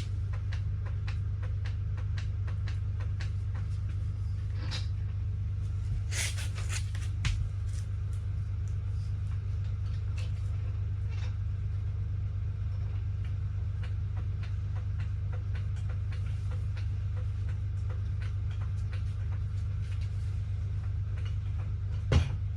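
Steady low rumble with scattered light clicks and clanks of metal and tools during work on a car, a cluster of sharper knocks in the middle and one louder knock near the end.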